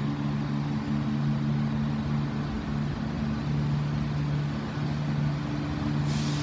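Diesel train engine running steadily at idle, with a short hiss of air about six seconds in.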